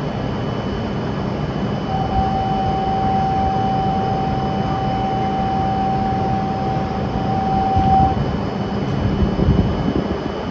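Shinkansen train noise at a station platform: a steady, loud rushing sound. A single steady tone is held over it for about six seconds, starting about two seconds in.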